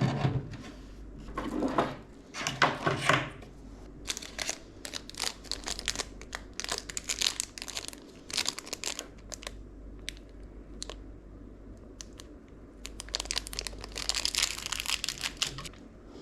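Plastic packaging crinkling with many small clicks and taps as PC parts are handled, in irregular bursts.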